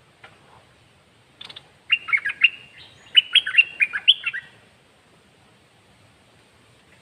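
Caged red-whiskered bulbul singing one quick phrase of rapid whistled notes that sweep up and down, starting about a second and a half in and stopping after about three seconds.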